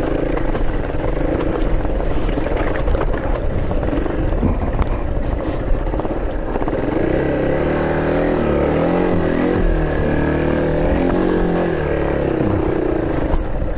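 A vehicle engine running while driving over low road rumble. Its pitch rises and falls repeatedly in the second half as the speed changes.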